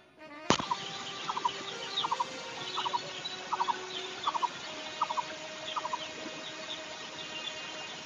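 A bird calling over and over in short groups of two or three quick notes, with fainter higher chirps of other birds. A sharp click about half a second in.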